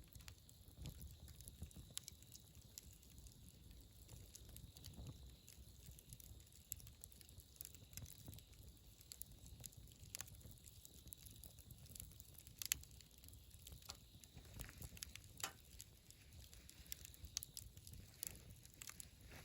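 Wood campfire crackling quietly: a low rumble of flames with scattered sharp pops and ticks, one louder pop about two-thirds of the way through.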